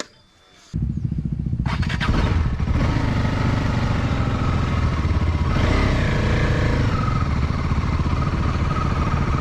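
Off-road motorcycle engine running, coming in abruptly about a second in and then holding steady at low revs.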